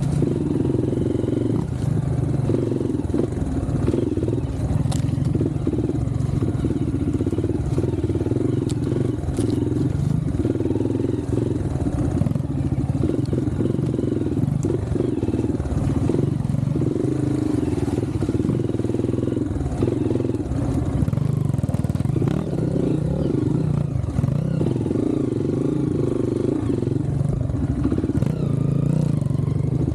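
Trail motorcycle engine running under way, its note rising and falling with the throttle, with a few brief clicks and clatter.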